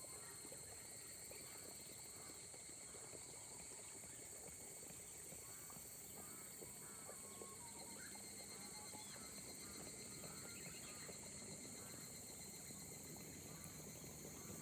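Faint rice-paddy ambience in gentle rain: a steady high insect trill with short chirping calls repeating through it over a fine speckled patter.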